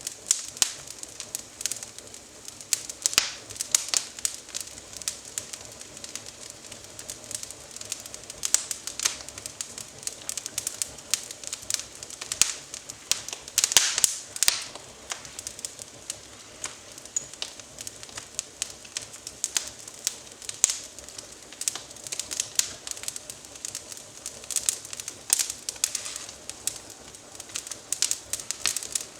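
Wood fire of small twigs crackling in a fireplace: irregular sharp pops and snaps over a soft hiss, thickening into a quick run of pops about halfway through.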